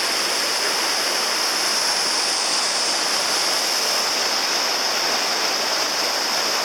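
Mountain creek water rushing and tumbling down in a steady, unbroken rush.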